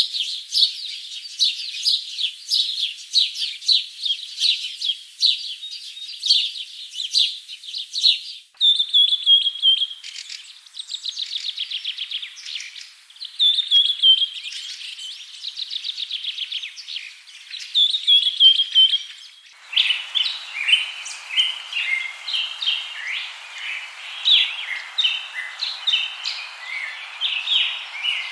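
Birds chirping and singing: quick repeated high chirps, then falling trilled phrases, then a mix of shorter chirps over a steady hiss. The birdsong changes abruptly twice, about a third and two-thirds of the way through.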